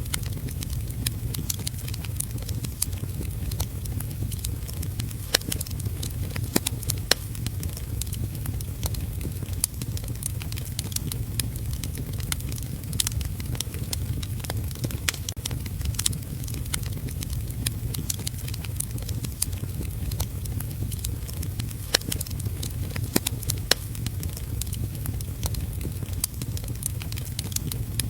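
Wood fire in a fireplace crackling, with frequent irregular sharp pops over a steady low rumble, mixed with the steady hiss of heavy rain.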